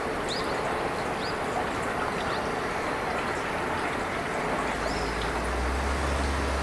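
Open-air trackside ambience with a few short rising bird chirps in the first second or so, then a low steady rumble of a train coming in about four and a half seconds in and growing louder toward the end.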